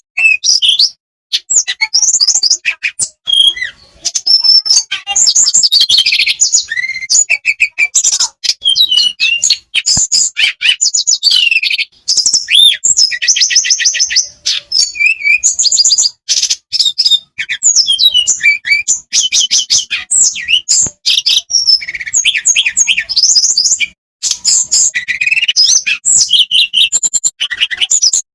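A tledekan, an Indonesian blue-flycatcher-type songbird, singing almost without pause: long strings of rapid trills and warbling phrases, with a few short breaks.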